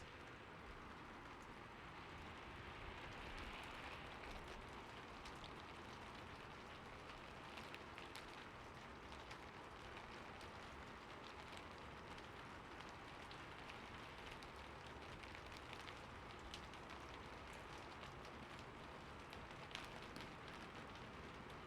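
Light rain falling steadily and quietly, with single drops ticking sharply now and then.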